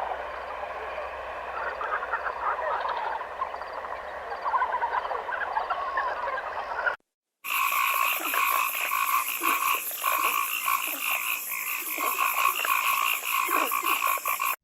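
A chorus of frogs calling, many overlapping croaks and trills. About seven seconds in there is a half-second break, after which a different chorus of fast, pulsing trills follows.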